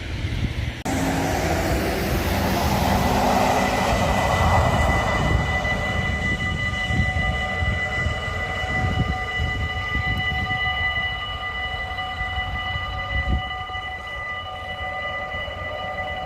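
Arriva diesel multiple-unit train passing a level crossing. A sudden rush of noise about a second in gives way to a steady rumble, with several high steady tones held over it.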